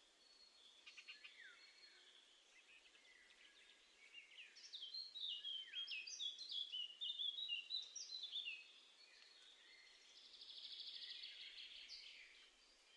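Small songbirds singing: a few faint chirps about a second in, then a busy song of quick, varied high notes lasting about four seconds, and a fast trill near the end.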